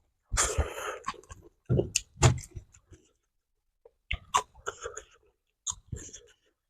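Close-up eating sounds: a person biting and chewing crunchy food, in four short clusters of sharp crunches and clicks with brief pauses between them.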